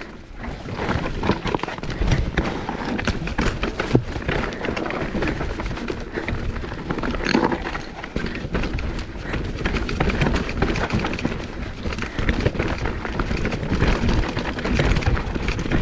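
Mountain bike riding down a rough dirt trail: tyres crunching over dirt and rocks with constant clattering and rattling of the bike.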